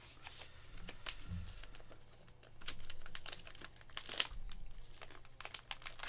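Plastic trading-card pack wrapper crinkling as it is torn open: an irregular run of sharp crackles and rustles.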